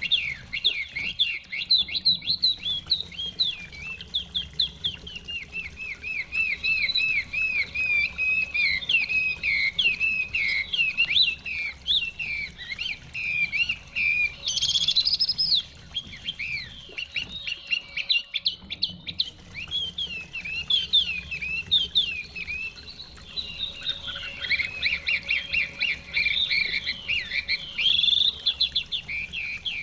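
Chinese hwamei (họa mi) singing a long, varied song of rapid whistled notes and repeated slurred phrases, broken by two short pauses, about a second in and about two-thirds through.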